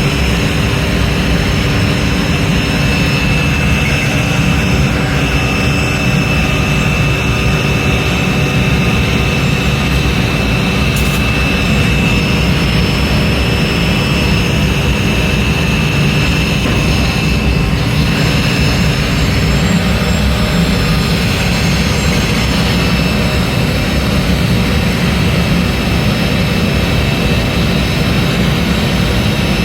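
Industrial machinery running steadily, a dense low rumble with a constant high whine over it.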